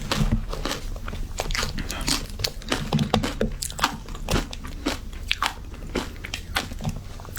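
Frozen matcha ice being bitten and crunched between the teeth, close up: a rapid, irregular run of sharp crunches and cracks with chewing.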